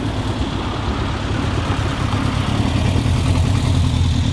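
A car engine running at low revs, growing gradually louder.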